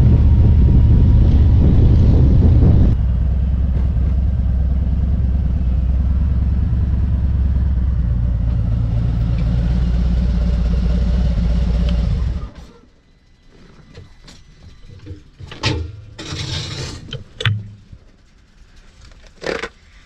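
Motorcycle engine running steadily, dropping to a lower, quieter running about three seconds in, then shut off about two-thirds of the way through. A few short knocks and a rustle follow once the engine is off.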